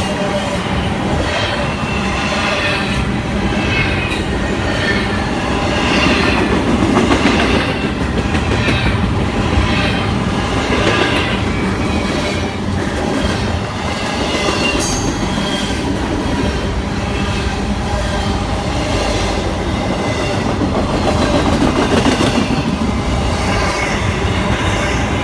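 Freight train rolling steadily past at close range: continuous wheel-on-rail rumble with repeated clacking and squealing from the cars' wheels.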